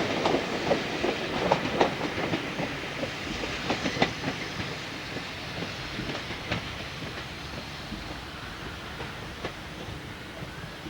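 A train running past, its wheels clicking irregularly over the rail joints, fading away as it moves off.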